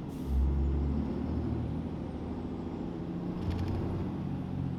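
Ram 2500's straight-piped 6.7 Cummins turbo-diesel pulling under throttle. The deep exhaust rumble swells twice, with a faint turbo whistle rising and falling above it as the turbo spools up, heard from inside the cab.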